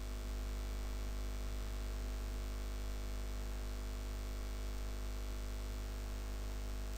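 Steady electrical hum with hiss from the recording setup, unchanging throughout: background noise while no one speaks.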